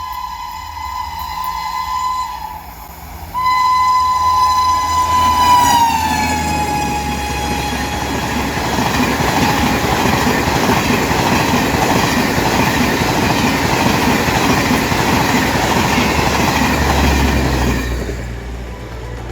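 Indian Railways WAP-7 electric locomotive horn sounding two long blasts, the second falling in pitch as the locomotive rushes past at about 130 km/h. The horn gives way to the steady rushing noise of the express coaches and wheels going by for about ten seconds, which fades near the end.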